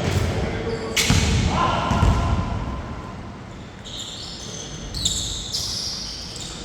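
A basketball bouncing on a court during play, with a sharp impact about a second in and voices calling out.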